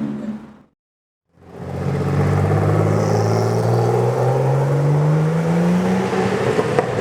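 Lamborghini engine running, dropping to silence for about half a second near the start, then fading back in with its pitch rising steadily as the car accelerates.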